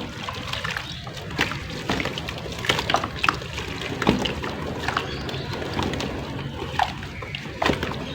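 Water pouring onto dry clay and cement shapes, splashing, with irregular sharp crackles and pops as the soaked clay crumbles.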